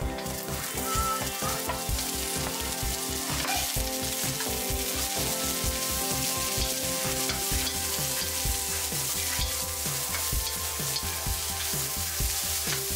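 Sliced onions sizzling in hot oil in a wok as they are tipped in at the start, then stirred with a wooden spoon; a steady frying hiss throughout.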